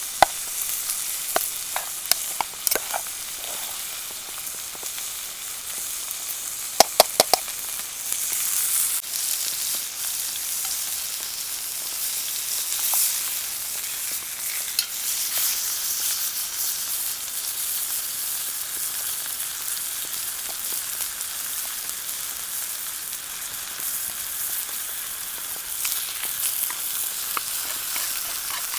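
Food sizzling in a hot pan, a steady high hiss, with a quick cluster of sharp clicks about seven seconds in.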